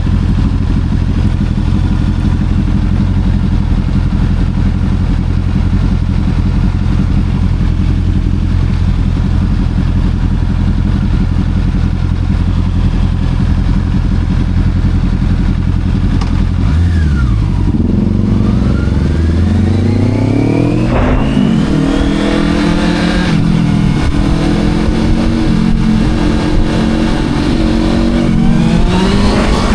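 Sport motorcycle engine running at a steady note, then from about halfway accelerating hard in several rising revs, the pitch dropping back between them as it shifts up through the gears.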